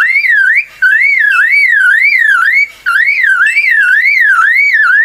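Superb lyrebird mimicking a car alarm: a loud whistled siren that swoops up and down about three times a second, in three phrases with short breaks between them.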